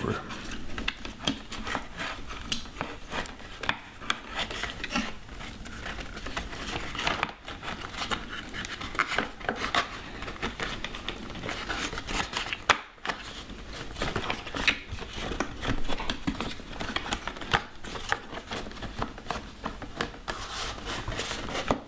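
A motorcycle's plastic cover panel being handled and fitted into place: irregular rubbing and scraping with many small clicks, and one sharper click about twelve seconds in.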